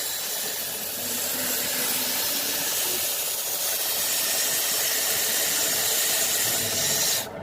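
CNC milling machine cutting bronze: a steady hissing machining noise with a faint hum beneath it, dropping out suddenly near the end.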